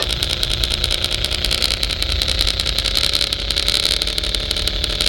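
Radio-controlled model truck or construction machine running steadily, with an engine-like rumble and a high whine.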